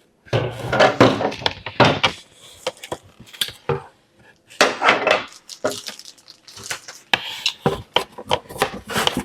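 Parts and packaging of a bird feeder kit being handled and set down: a busy run of clatters and knocks of hard pieces, with a short lull about four seconds in.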